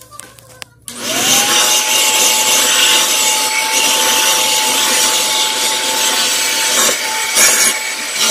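Commercial vacuum cleaner switched on about a second in: the motor whine rises and then holds at a steady pitch under loud, even suction noise as it runs over carpet.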